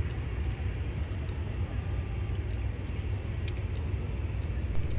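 Steady low rumble of engine and traffic noise, with a few faint clicks.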